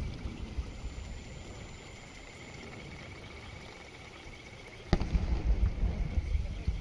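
Aerial firework shell bursting with a single sharp bang about five seconds in, followed by a low rumble; before it, only a low background hush with a faint steady high trill.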